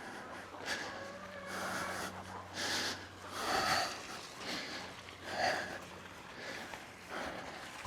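A person breathing hard, one heavy breath about every second, winded from lifting and stacking hay bales.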